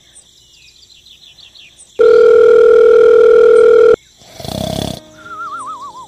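A loud, steady electronic beep held for about two seconds, followed by a cartoon snore sound effect: a rasping snort, then a wavering whistle that slides downward.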